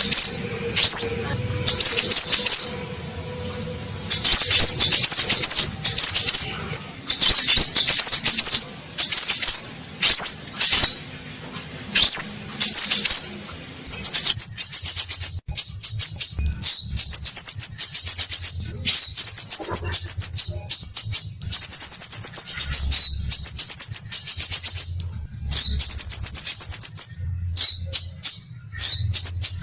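Sepah raja (scarlet minivet) singing energetically in loud, rapid, high-pitched phrases. Short bursts with sweeping notes come first, and they run into near-continuous chattering about halfway through.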